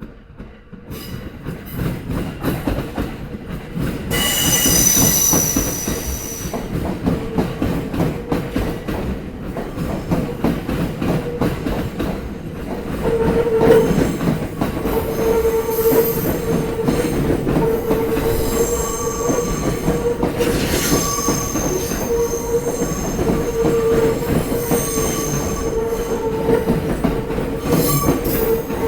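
Sōbu Line electric commuter train running over rail joints, a dense clatter of wheels striking the joints with high-pitched wheel squeal. It builds up over the first few seconds, and a steady hum joins about halfway through.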